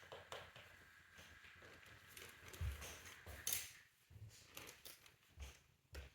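Small toy pieces being handled: scattered light clicks and taps with a few soft thumps, and a faint steady high tone through the first half.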